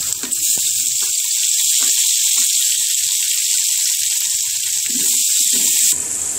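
Hot oil sizzling steadily in a cooking pot as chopped tomatoes and green chillies fry with onions and ginger-garlic paste, with a few faint knocks.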